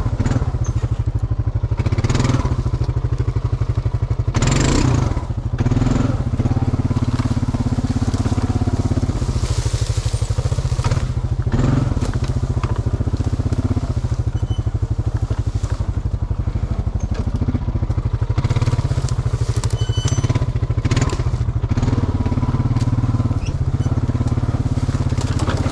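Honda Rancher ATV's single-cylinder four-stroke engine running under load as it is ridden off-trail, with brush and branches crackling and scraping against the machine several times.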